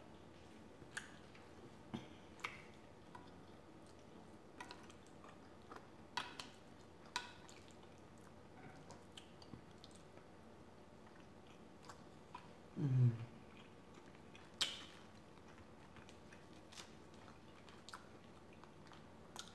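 Faint close-up eating sounds: soft wet smacks and clicks of a mouth chewing chicken tikka masala and rice, scattered through, with a short low hum of the voice, falling in pitch, about thirteen seconds in.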